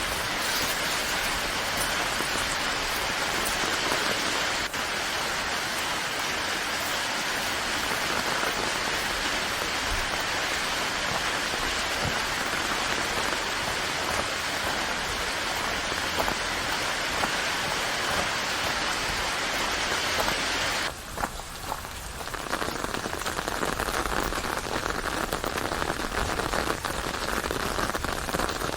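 Steady rain, an even hiss of many drops. About three quarters of the way through it changes suddenly to a duller patter of separate drops with less high hiss.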